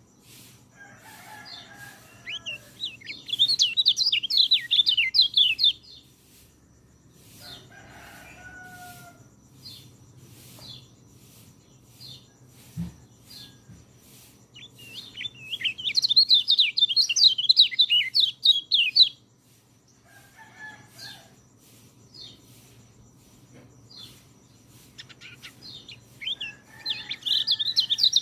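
Orange-headed thrush (peleci) singing: three bursts of fast, varied song a few seconds long, with pauses between them. During the pauses, short high notes repeat about once a second and lower calls come now and then.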